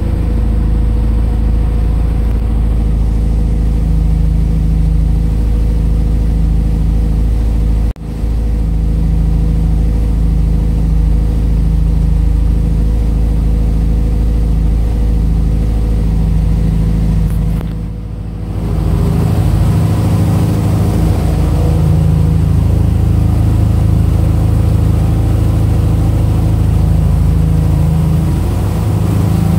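2005 Subaru STI's turbocharged 2.5-litre flat-four (EJ257) running at a steady idle on its first start-up after a rebuild with forged pistons and rods. The sound dips sharply for a moment about eight seconds in and again, more softly, about eighteen seconds in.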